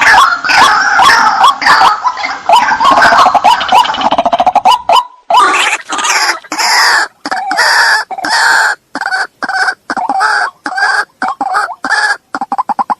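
White-breasted waterhen (ruak-ruak) calls from a bird-lure recording: a rapid run of harsh repeated notes for about five seconds, then after a short break a slower series of separate calls with brief gaps between them.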